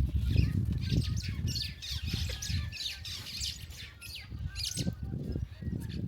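Birds calling, a rapid run of short high chirps, over a low rumble.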